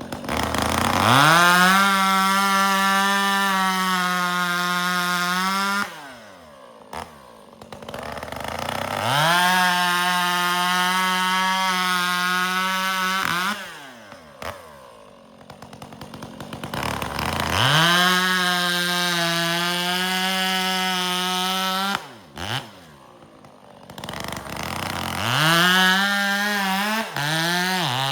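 Two-stroke chainsaw bucking firewood: it revs up to full throttle, holds a steady high pitch through a cut for about five seconds, then drops back toward idle, three times over, with quick throttle blips near the end.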